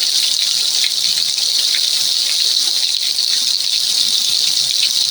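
Heavy rain pouring down: a steady, loud hiss with scattered splashes of drops.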